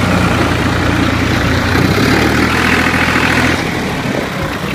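New Holland Al-Ghazi tractor's diesel engine running steadily, then dropping in level about three and a half seconds in.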